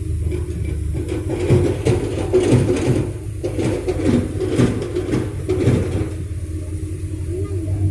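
Heavy diesel engine running steadily at a low hum, with a few seconds of irregular knocking and crackling over it in the middle.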